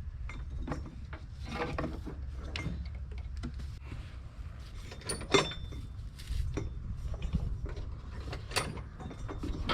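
A V-belt being worked off the mower deck's pulleys by hand: irregular clicks, knocks and rubbing of the belt and metal parts, with one sharper knock about five seconds in.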